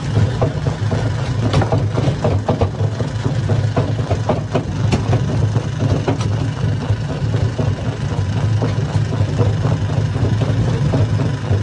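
Hammer-type stone crusher running with a steady low hum, with irregular sharp knocks and clatter of rock being broken, thickest in the first half.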